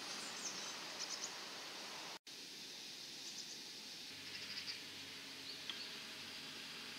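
Steady outdoor background hiss with faint, high chirps of small birds now and then, briefly cut out about two seconds in.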